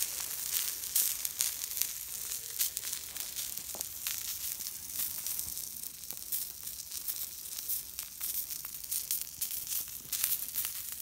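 Sausages and a fried egg sizzling on the hotplate of a small wood-burning camp stove: a steady hiss full of fine crackles.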